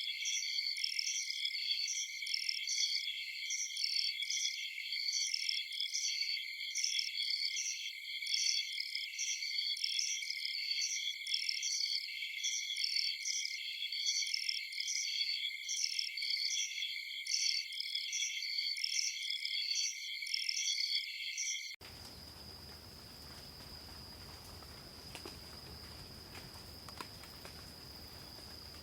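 A chorus of night insects, crickets, chirping in a fast, even pulsing rhythm at several layered high pitches. About three-quarters of the way through it cuts off abruptly, giving way to a quieter, steady single high insect trill.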